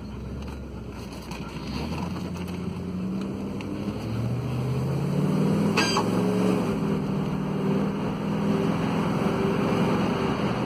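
2000 Jeep Grand Cherokee's 4.7-litre V8 accelerating, heard from inside the cabin: the engine note rises in pitch and grows louder as the automatic shifts smoothly through the gears, over tyre and road noise.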